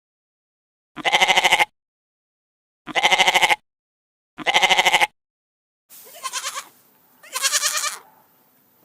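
Goat bleating five times, each a shaky, wavering call under a second long: three matching bleats evenly spaced, then two more over a faint hiss.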